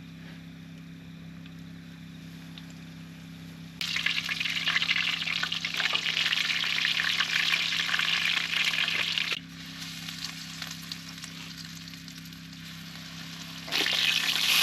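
Battered flathead and chips frying in hot oil: a loud sizzle that comes in abruptly about four seconds in, drops away at about nine seconds and returns near the end. A steady low hum runs underneath throughout.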